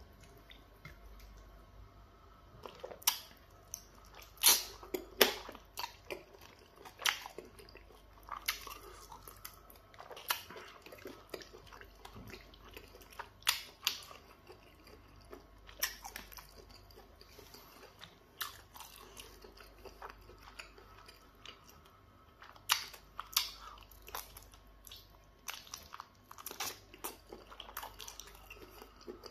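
A person chewing mouthfuls of pounded yam fufu in peanut butter soup, with sharp wet mouth clicks and smacks at irregular intervals, the loudest about four to five seconds in.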